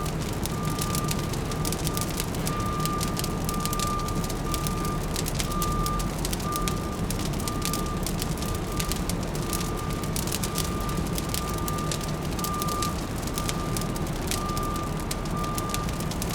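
Layered city-and-fireplace ambience: a fire crackling over a low, steady city hum, with a vehicle's reversing alarm beeping on one pitch about once a second.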